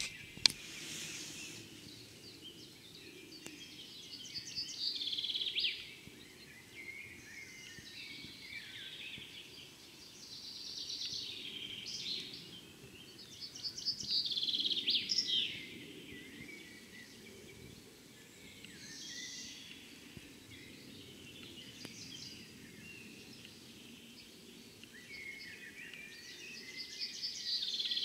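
Songbirds singing outdoors: trilled phrases that fall in pitch, repeated every few seconds, over a low steady background hum. A sharp click right at the start.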